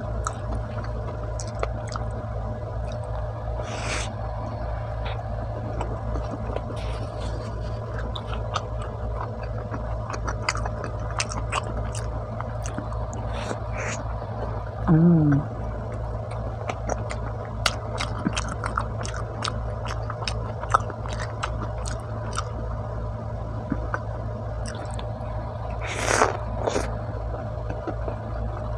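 Close-miked chewing of pizza, soft and wet with many small mouth clicks, over a steady low hum. A short hummed sound with falling pitch comes about halfway through, and a brief louder noisy burst comes near the end.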